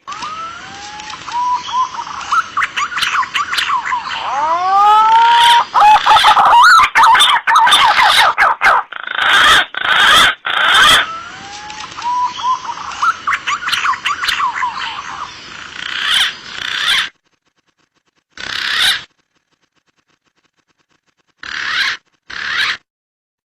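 Green pigeons (punai) calling in a spliced lure recording: whistled notes that swoop up and down, over a dense layer of rougher, overlapping calls. Past the middle the calls stop abruptly into dead silence, broken by two short bursts, where the edit cuts between clips.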